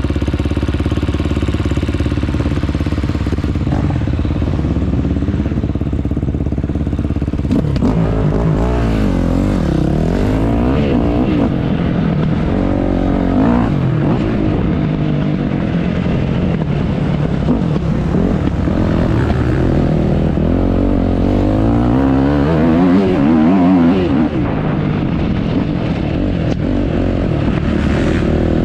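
Motocross bike engine running at a steady speed, then revving up and down over and over from about eight seconds in as it is ridden over rough ground.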